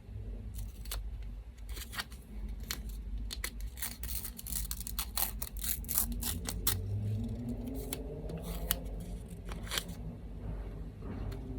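Scissors snipping paper, a run of quick cuts in the middle with single snips before and after, over the steady low hum of an electric fan.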